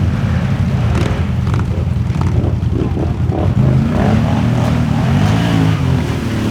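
4x4 ATV engines running and revving in a mud race, the engine note rising and falling.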